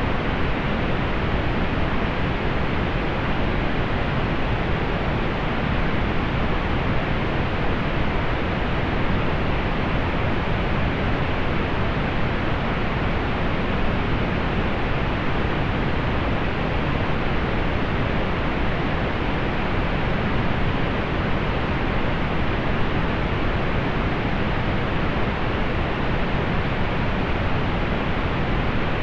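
Steady pink noise: an even, unchanging hiss with its weight in the low end, softening toward the highs.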